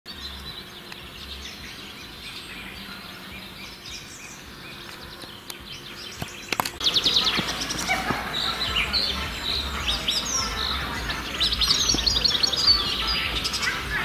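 Songbirds singing and chirping, several at once, turning louder and busier about halfway through.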